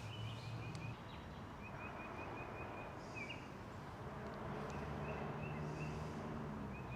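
A bird calling in runs of short, quick, high chirps that come and go, over faint outdoor background noise and a low steady hum.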